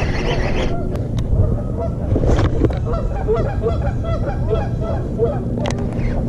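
Geese honking: a rapid run of short calls for a few seconds, over a steady low rumble.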